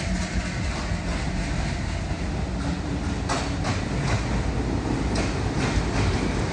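Passenger train running along the track: a steady rumble of wheels on rails, with a few sharp clicks as wheels pass over rail joints in the second half.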